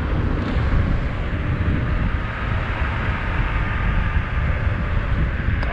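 Wind buffeting the microphone and road noise while riding an electric bike, a dense low rumble with a faint steady whine above it.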